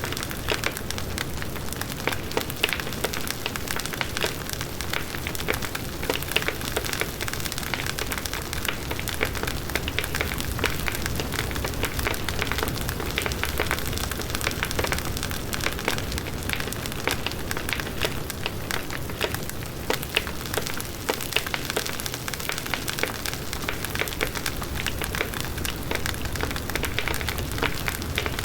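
Wood fire burning steadily, the wood crackling with many small sharp pops over the even rush of the flames.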